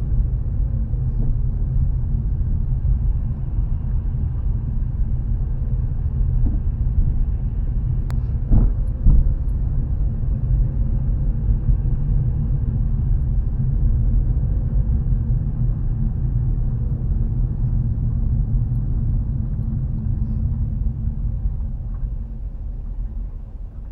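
Car driving along, a steady low rumble of engine and road noise, with a sharp click about eight seconds in and a couple of knocks just after it.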